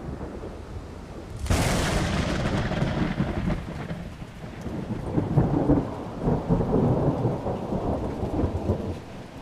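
Thunder: a sudden sharp crack about a second and a half in, followed by a long low rolling rumble that dies away near the end.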